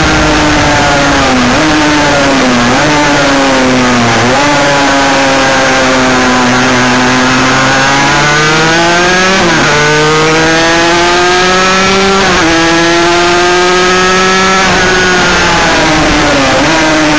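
Sport motorcycle engine on a hot lap, heard from on board. The revs climb through the gears with two sharp upshifts near the middle, then fall away under braking with quick throttle blips near the end, over steady wind rush.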